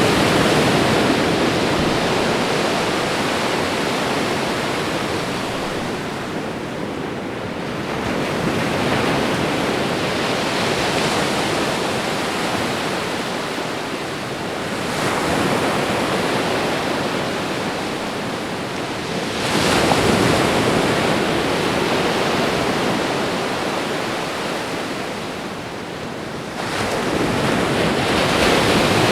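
Ocean surf: waves breaking and washing up the shore in a continuous rush that swells and ebbs, with a new surge every five to seven seconds.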